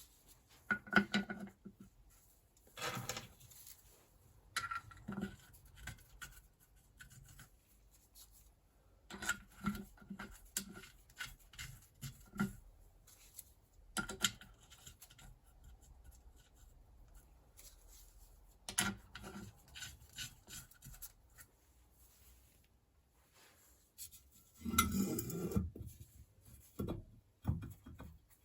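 Intermittent handling noises of engine covers being fitted onto a BMW R1200 engine case: short knocks, clicks and scraping rubs, in scattered clusters with quiet gaps between. The loudest cluster comes near the end.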